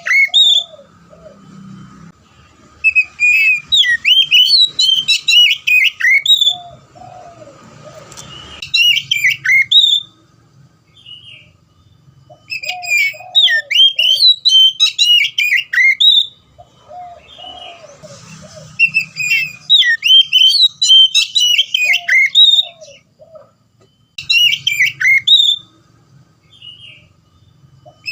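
Oriental magpie-robin singing loudly: bursts of fast, varied whistled phrases a few seconds long, separated by short pauses.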